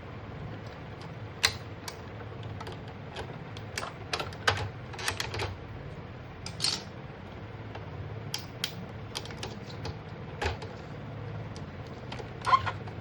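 Irregular clicks and taps from hands working on an Epson ink tank printer's plastic casing and parts during a repair, over a steady low hum. The sharpest clicks come about a second and a half in and near the end.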